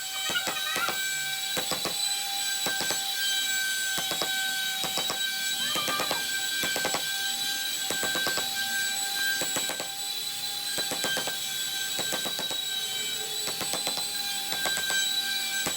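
A small electric power tool running with a steady high whine while it works wood, with many irregular clicks and scrapes where the bit bites.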